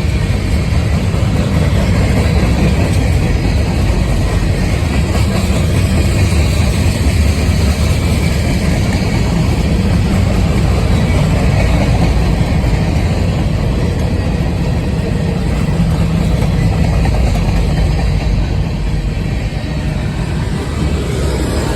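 CSX mixed freight train rolling past at close range: a steady, loud, low rumble that holds throughout.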